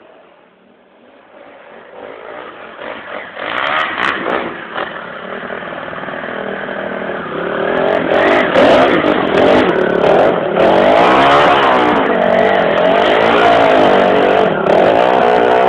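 Dirt bike engine coming closer and growing louder, then revving up and down repeatedly at close range as the rider works the throttle.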